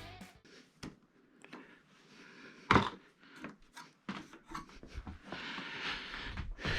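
Scattered clicks and knocks from handling the TV and its parts, with one sharp knock about three seconds in and a stretch of rustling near the end.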